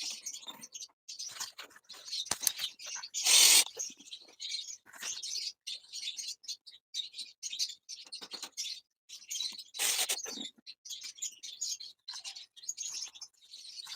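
Small birds chirping and twittering in quick, irregular bursts throughout, with two louder half-second noises about three seconds and ten seconds in.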